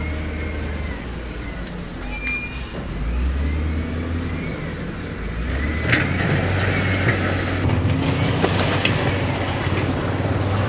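Diesel engines of heavy earthmoving machinery running, their pitch shifting as the load changes, with sharp knocks about six and eight seconds in.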